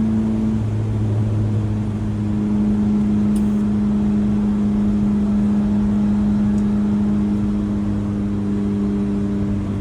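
Twin-turbo Mitsubishi Mighty Max pickup's engine droning steadily while driving, its pitch stepping slightly lower about half a second in, then holding even.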